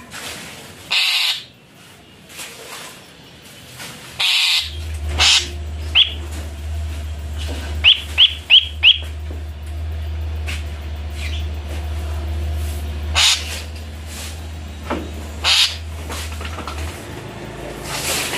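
Bird calls: short high chirps, with a quick run of four about eight seconds in, among several short harsh rasping bursts over a steady low hum.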